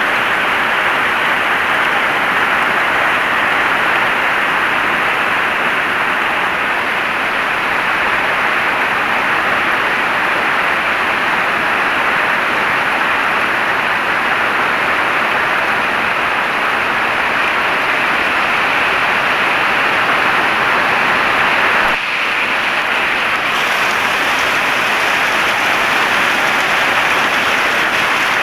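Heavy rain falling steadily, a dense even hiss. About 22 seconds in it dips briefly and then comes back slightly brighter.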